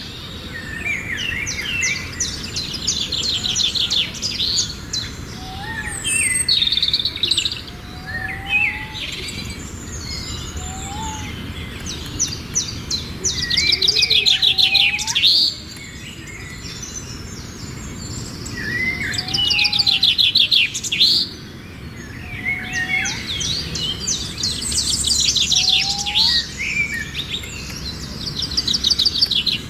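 Birdsong from more than one bird: fast trilled and chattering phrases sung high and repeated every few seconds, over a separate short, low whistled note that recurs every second or two.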